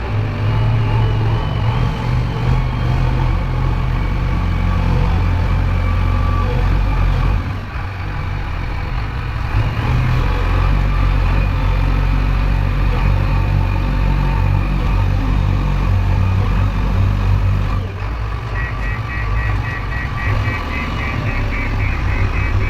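Diesel engine of a JCB backhoe loader running steadily, with a rapid, evenly repeated high beeping joining in near the end.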